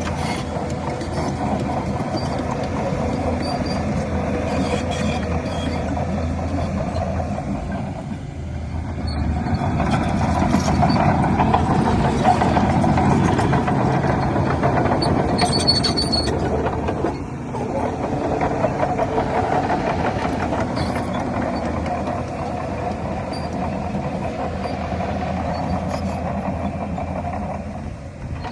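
Heavy diesel earthmoving machinery running continuously, the engine noise of a dump truck and a bulldozer working soil. The level dips briefly twice along the way.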